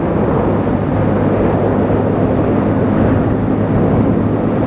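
Rushing wind on a helmet microphone over the steady drone of a small 250cc sport motorcycle engine cruising at constant speed.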